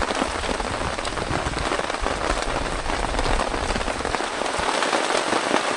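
Heavy rain falling steadily: a dense patter of drops, with a low rumble underneath that stops about four and a half seconds in.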